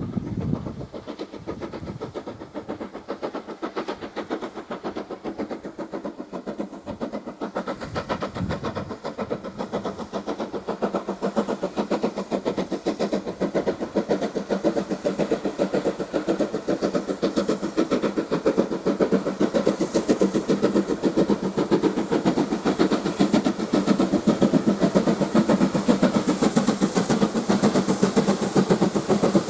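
USATC S160 2-8-0 steam locomotive working, its exhaust beating in a fast, even rhythm that grows steadily louder.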